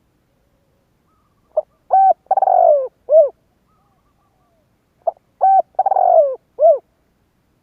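Spotted dove cooing: two identical song phrases about three and a half seconds apart, each a short note, a clear coo, a long rough coo falling in pitch, and a final coo.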